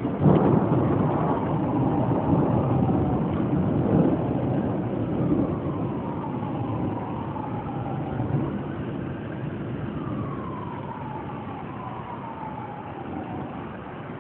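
A clap of thunder that breaks suddenly just after the start and then rolls on as a long low rumble, slowly fading.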